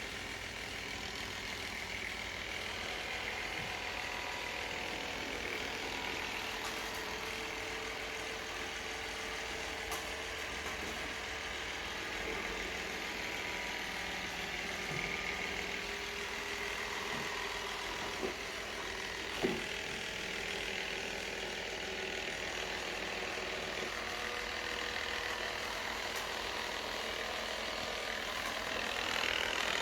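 Robot vacuum cleaner running with a steady motor and brush whir, and two short knocks about two-thirds of the way through.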